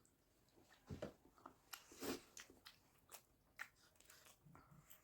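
Faint chewing and eating mouth sounds, a few separate soft clicks and crunches, the loudest about a second and two seconds in.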